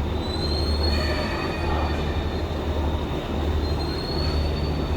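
A train rolling slowly over the rails, a steady low rumble with thin high wheel squeals near the start and again near the end.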